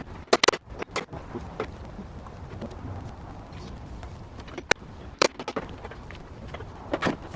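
Several sharp knocks and clanks, single or in small clusters, over a low steady rumble.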